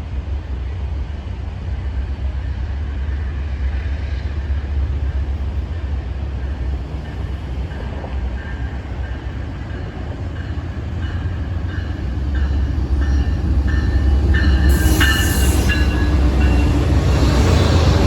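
Train rolling past, a steady low rumble that grows louder in the last third, with high-pitched wheel squeal near the end.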